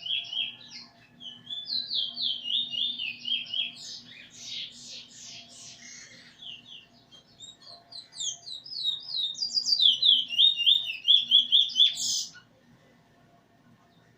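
Cage songbird singing rapid, repeated chirping phrases and trills along with a tutor song it is almost done learning. The song grows loudest near the end, then stops abruptly after a sharp high note.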